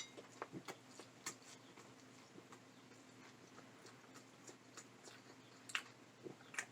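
Faint, irregular wet clicks and smacks of a person chewing a burger with the mouth open, over a faint steady low hum.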